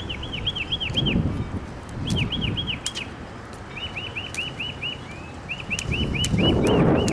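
A songbird singing phrases of rapid, repeated arched chirps, about four or five notes a second, with short pauses between phrases. Wind buffets the microphone, growing louder near the end.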